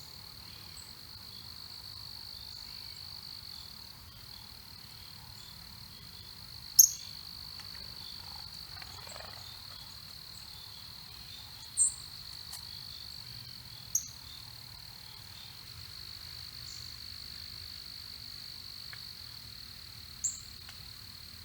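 Steady high-pitched insect drone, with four short, sharp, high chirps from a small bird scattered a few seconds apart.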